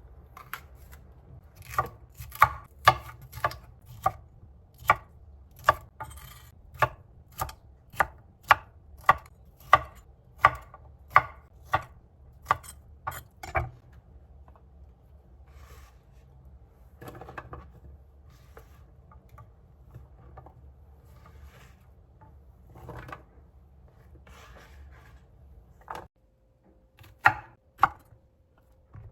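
Knife chopping on a cutting board in an even rhythm of about two strokes a second, which stops about halfway through. After that come a few scattered, fainter knocks, and two loud knocks near the end.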